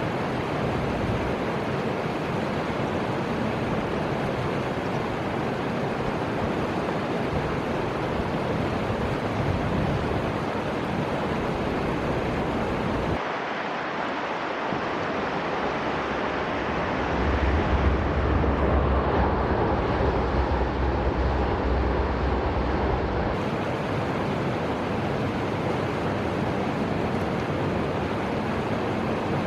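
Steady rushing noise of the Fuji River's flowing water, mixed with wind on the microphone. Partway through, a deep low rumble swells for several seconds and then fades back.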